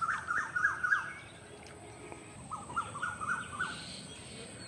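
A bird calling in two quick series of short repeated notes, the second starting about halfway through.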